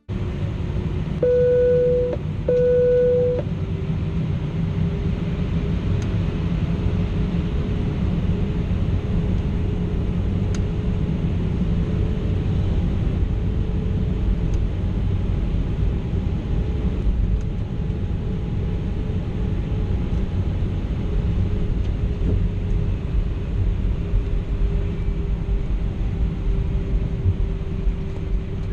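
Cabin noise inside an Airbus A319 with its engines running: a steady low rumble with a droning engine tone. Two short identical chimes sound about a second apart near the start.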